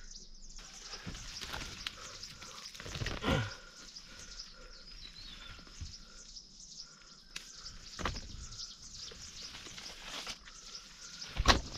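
Countryside ambience: a steady high insect drone with repeated short chirps over it, and a few dull knocks, the loudest near the end.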